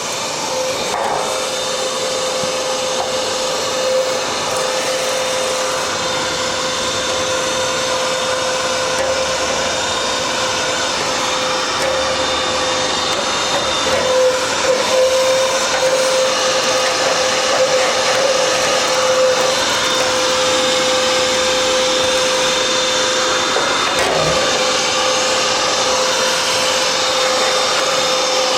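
Vacuum cleaner running steadily with a whining tone, sucking built-up fluff and lint out of the back of a condenser tumble dryer. The higher part of the whine drops away about halfway through.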